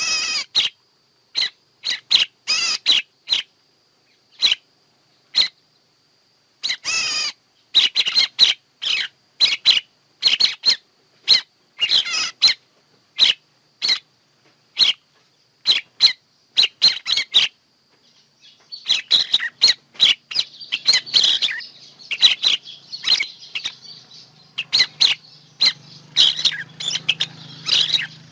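Songbirds calling: short, sharp high chirps repeated about once or twice a second over a faint steady high whine. About two-thirds of the way in the calls thicken into a denser chatter of overlapping birds, and a low hum comes in.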